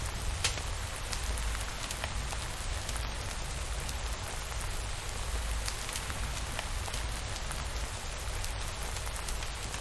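Steady rain falling, with scattered sharp drop ticks over a low rumble.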